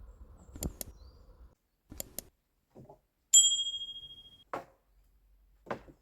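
A few sharp clicks and knocks, with one clear metallic ding about three and a half seconds in that rings on and fades over about a second.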